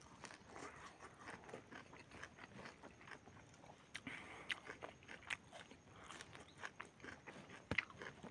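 A person biting and chewing a mouthful of leafy greens and food, heard as faint, irregular crunches and short clicks.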